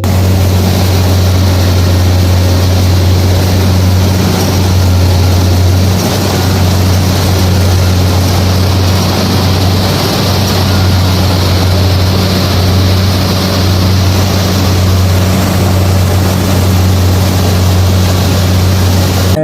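Kubota DC-70 combine harvester running steadily as it works, a constant low engine drone with dense mechanical noise over it.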